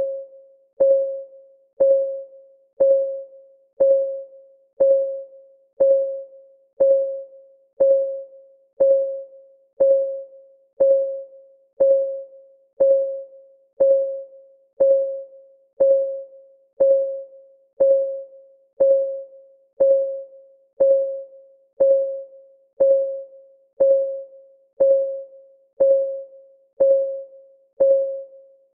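Clock ticking sound effect, steady at one tick a second, each tick a short pitched tock that rings briefly and dies away.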